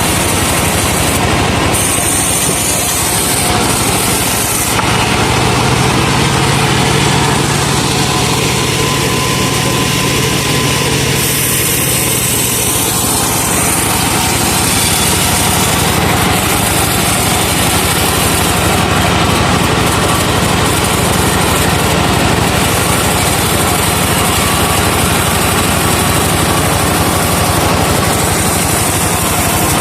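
Sawmill truck running steadily, its engine driving the saw rig, with a low hum that grows stronger for a few seconds from about five seconds in.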